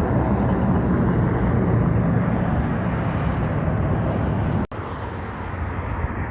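A big truck going by on the road, its engine drone and road noise slowly fading as it moves away. About three-quarters of the way through, the sound cuts out for an instant and comes back quieter.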